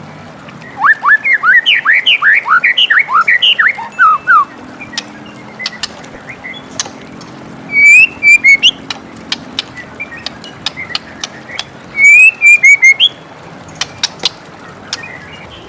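White-rumped shama singing: a fast run of rising whistled notes for about four seconds, then two short phrases of sharp whistles about eight and twelve seconds in, with scattered short clicks between them.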